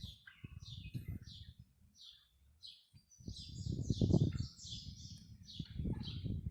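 Small birds chirping in a steady series of short high chirps, about two a second, over a low rumbling, crackling noise that swells about four seconds in.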